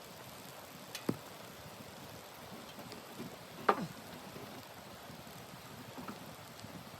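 A steady hiss with a few sharp knocks and ticks; the loudest comes a little under four seconds in.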